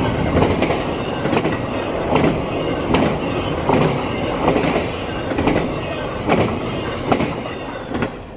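Freight train cars rolling past, their wheels clicking over rail joints in a steady clickety-clack of roughly one beat every 0.8 seconds over a continuous rumble. The sound drops off near the end as the train's tail passes.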